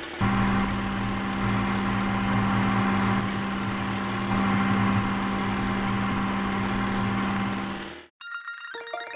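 Small electric motor of a homemade model machine running steadily with a hum, then cutting off abruptly about eight seconds in.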